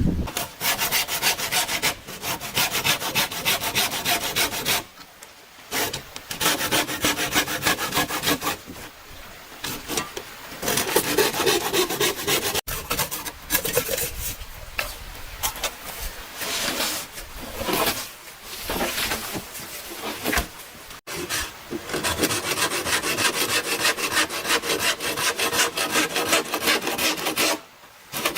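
A hand tool working bamboo with fast rasping strokes. It comes in long runs broken by short pauses.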